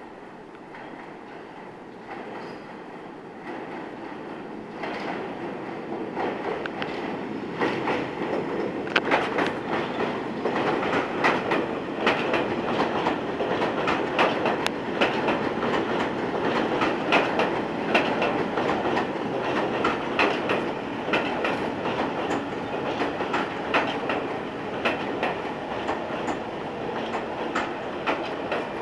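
R46 subway train running through a station on elevated track without stopping. It grows louder over the first eight seconds or so as it approaches, then keeps up a steady rumble with rapid clacking of wheels over rail joints.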